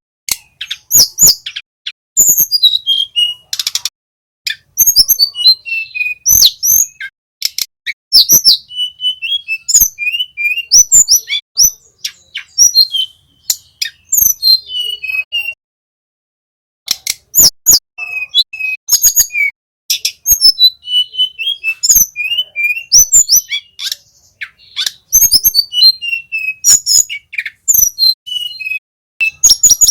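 Small flycatchers singing a fast, busy song of sharp chirps, short whistled notes and clicks, with a brief pause about halfway through.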